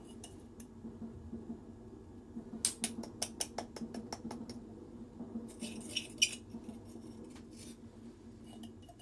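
A utensil clicking against a mixing bowl as rice flour and sugar are mixed: two runs of quick sharp ticks, the first about three seconds in and the second around six seconds, over a steady low background hum.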